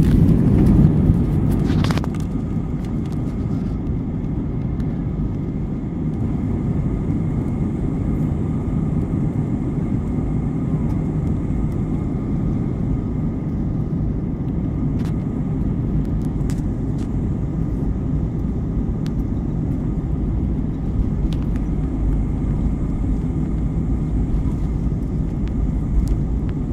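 Airliner cabin noise: a steady low rumble of the engines and airflow, with a faint steady whine above it.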